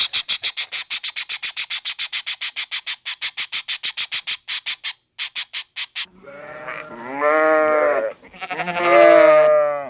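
A fast, even run of short high chirps, about six a second, for the first six seconds, then two long, loud bleats from a goat or sheep.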